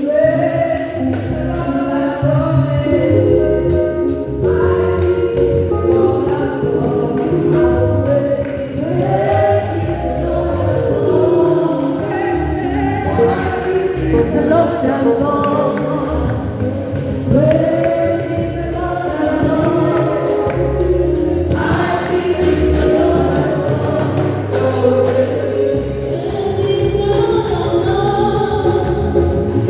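Church choir singing a gospel song, with a steady bass line underneath.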